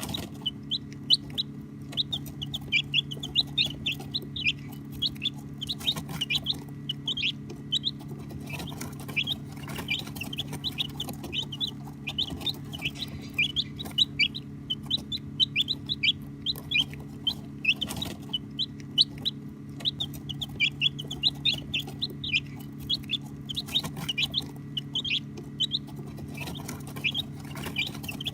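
Baby chicks peeping nonstop, many short high chirps overlapping, many of them sliding downward, over a steady low hum.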